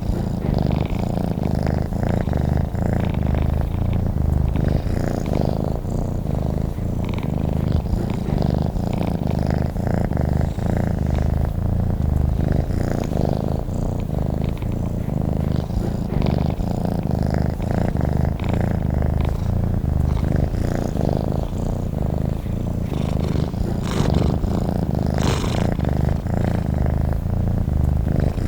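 Domestic cat purring close up: a steady, continuous, low rhythmic purr.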